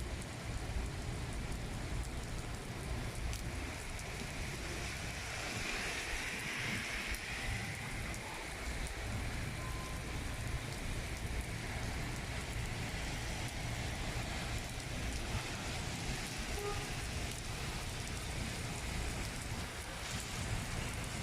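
Heavy rain pouring steadily, a constant hiss of rain falling on surfaces.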